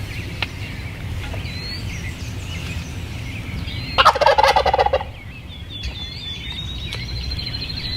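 A wild turkey gobbler gobbles once, loud and rattling for about a second, about four seconds in. Small songbirds chirp throughout, with a trill near the end.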